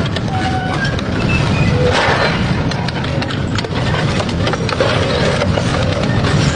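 Double-shaft metal shredder grinding scrap metal: a continuous dense clatter of knocks and cracks, with short metallic squeals breaking through now and then.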